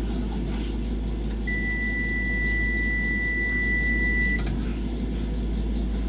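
Docklands Light Railway train interior: a steady low rumble, with a single steady high electronic tone starting about a second and a half in, held for about three seconds and ending in a click.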